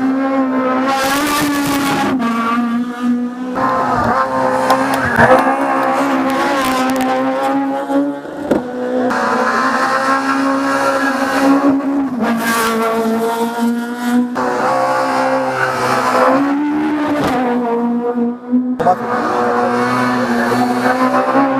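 Race car engine running at high revs up a hill climb, with the note breaking and picking up again every few seconds as the driver shifts and lifts.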